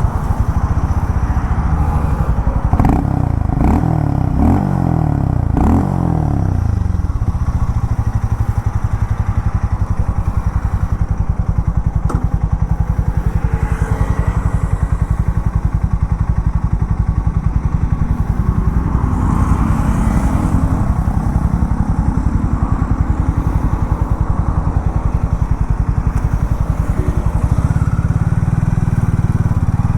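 Harley-Davidson X440 T's single-cylinder engine, revved a few times in the first several seconds, then settling to a steady idle.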